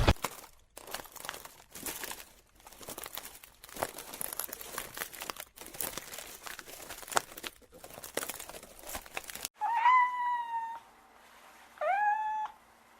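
Crackling, rustling handling noise for most of the stretch, then a cat meowing twice near the end: a longer meow, then a shorter rising one.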